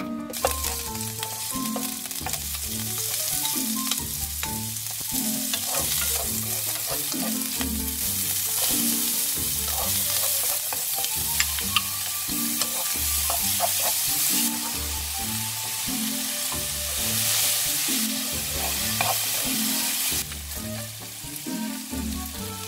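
Pork, onion, kimchi and cabbage stir-frying in oil in a nonstick wok: a steady sizzle, with wooden chopsticks and a spatula stirring and now and then clicking against the pan. Soft background music with a repeating bass line plays underneath.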